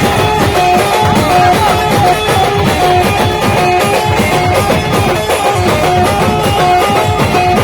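Loud live band music from a Maharashtrian band party: a lead melody of short held notes over fast, busy drumming.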